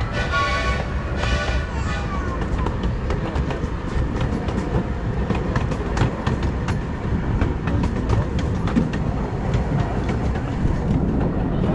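Small steam train running along the track: a steady low rumble with many sharp clicks of the wheels over rail joints. A steady several-note steam whistle sounds at the start and dies away within about two seconds.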